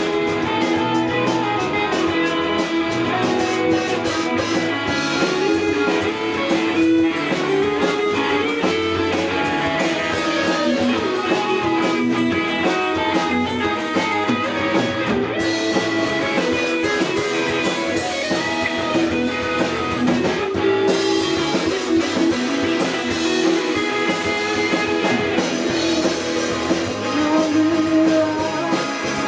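Live rock band playing, with electric guitar lines over a drum kit.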